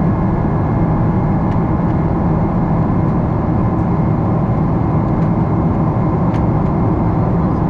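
Steady cabin noise inside a Boeing 777-300 in flight, heard from a window seat: an even engine and airflow roar with a faint steady whine above it.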